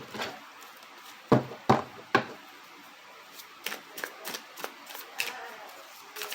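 Tarot cards being handled: three sharp taps in quick succession about a second and a half in, then a run of lighter clicks and rustles as the deck is worked.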